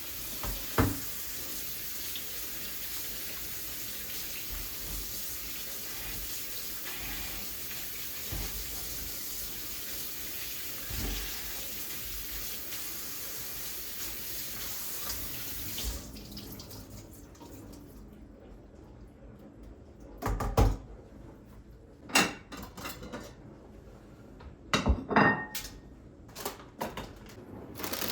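Kitchen tap running steadily into a sink, with a few light knocks, then shutting off about halfway through; after it, several sharp clatters of dishes or kitchen items being set down.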